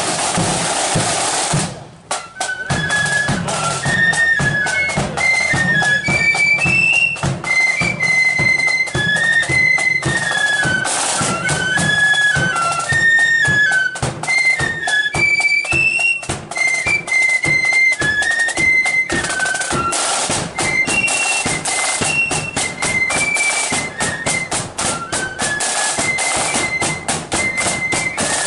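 Marching flute band playing a tune on high flutes over snare and bass drums. A drum roll breaks off about two seconds in, and then the flutes strike up the melody.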